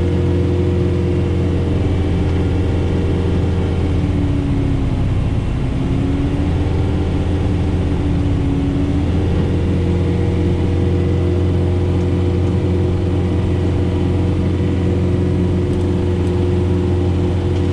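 John Deere 4066R tractor's diesel engine running steadily under load while driving a PTO snowblower through heavy wet snow, heard from inside the cab. Its pitch dips briefly and recovers twice, about four to six seconds in and again around eight seconds in.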